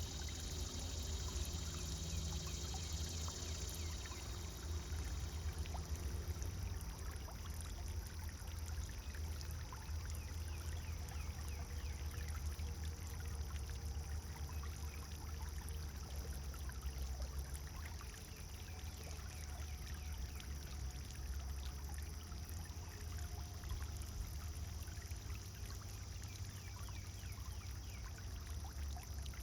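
Pond fountain water splashing and pouring steadily into the pond, a continuous wash of small splashes over a low rumble.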